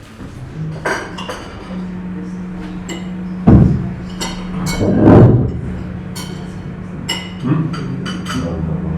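Crockery and cutlery clinking in a busy breakfast room, with repeated sharp clinks of plates, cups and glass over a steady low hum. Two louder low thumps stand out, one about a third of the way in and a longer one just past the middle.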